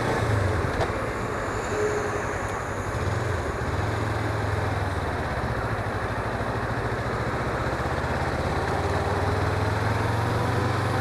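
Suzuki V-Strom 250's parallel-twin engine running steadily while the motorcycle is ridden, under a continuous rush of wind and road noise.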